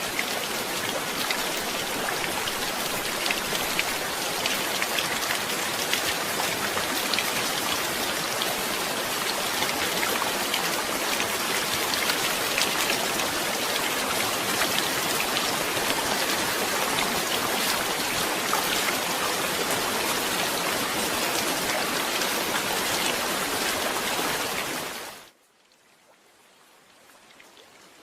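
Steady heavy rain with many separate drop hits, fading out quickly about 25 seconds in to near silence, then faintly swelling back near the end.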